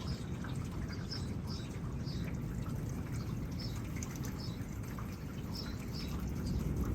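Steady hiss of rain and wind during a thunderstorm, with a string of short high chirps repeating about twice a second.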